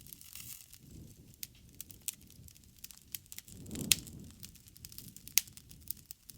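Wood fire crackling: a steady scatter of sharp pops and snaps over a low rushing of flame, with a louder swell of flame and a loud pop about four seconds in, then another sharp pop.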